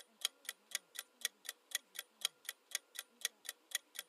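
Quiz countdown timer sound effect: a clock-like tick repeating evenly, about four ticks a second.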